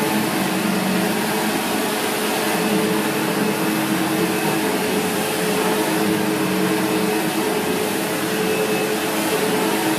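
Vacuum cleaner running steadily: a constant motor hum under a hiss of rushing air.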